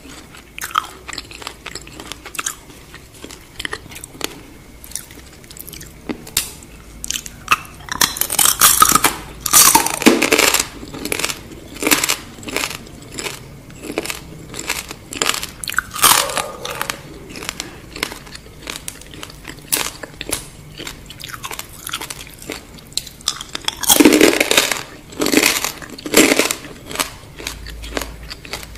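Close-miked crunching and chewing of deep-fried scorpions: crisp cracking bites with small clicks between them. The crunching is loudest in three spells: about a third of the way in, near the middle and again late on.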